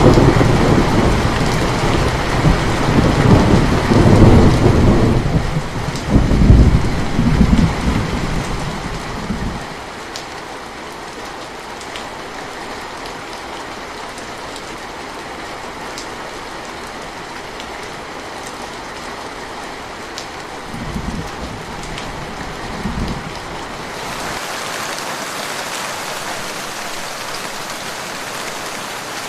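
Steady rain with a long roll of thunder over the first ten seconds or so, then two short, fainter rumbles of thunder a little after twenty seconds, with individual drops ticking in the rain.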